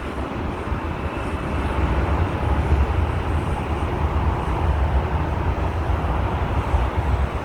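Boeing 787 airliner's jet engines giving a steady, deep rumble during its landing, with a faint whine above it.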